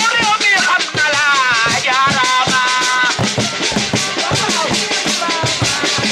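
Fast, dense sabar drumming for a dance, with a voice singing over the drums.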